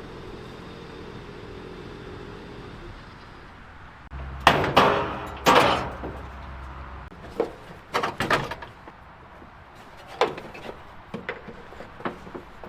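A steady mechanical hum that fades out about three seconds in, then a cluster of loud clunks and thuds, followed by scattered lighter knocks and clicks.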